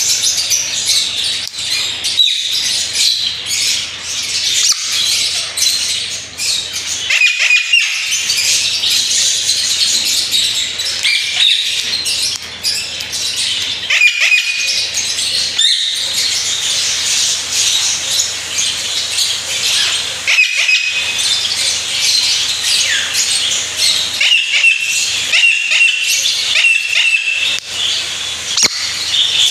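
African grey parrot chirping and chattering without pause, with short whistled notes every few seconds and a quick run of them near the end.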